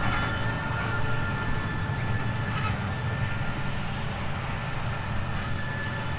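Combine harvester running steadily under load: a continuous low diesel rumble with a steady high machine whine over it.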